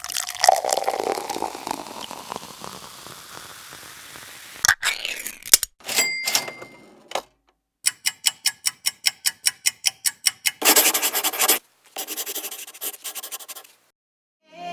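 A run of separate stock sound effects, one after another. First a long noisy swoosh fades out over about four seconds. Then come a couple of sharp knocks, a ringing ding-like tone, a quick run of about five ticks a second lasting nearly three seconds, a short burst of noise, and a fainter patter.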